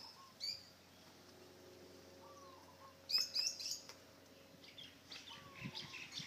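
Small birds chirping: a single short high chirp, then a quick run of several high notes about three seconds in, and a few more chirps near the end.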